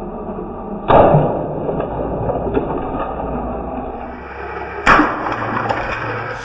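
Two sudden loud crashes, about four seconds apart, over a steady whining mechanical hum.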